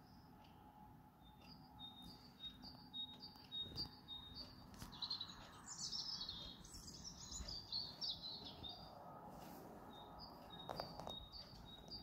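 Songbirds singing faintly. Short chirps repeat several times a second at first, a longer jumbled warbling phrase comes about halfway through, and spaced chirps return near the end.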